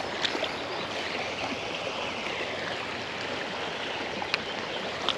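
Creek water running steadily over shallows, an even rushing hiss, with a few faint sharp ticks or small splashes.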